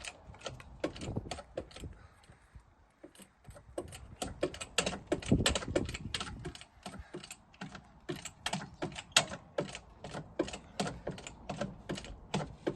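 Rapid, irregular metallic clicking and knocking as a jack is worked to raise the truck's rear axle a little higher, with a louder cluster of knocks about midway.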